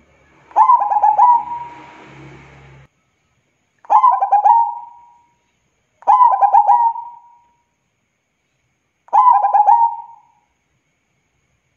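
Zebra dove (perkutut) cooing: four phrases, each a quick run of staccato coos ending in a held note, a second or two apart.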